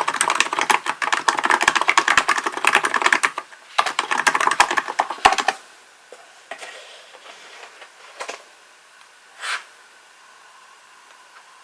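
Fast typing on a Hansung GK898B capacitive (contactless-switch) keyboard: a quick run of key presses, a short pause, a second burst, then the typing stops a little past halfway, leaving only a few scattered single clicks.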